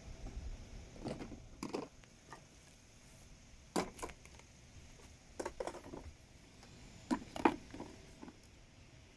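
Small toy animal figures knocking and clacking together as they are handled, in four short bursts of clicks a second or two apart.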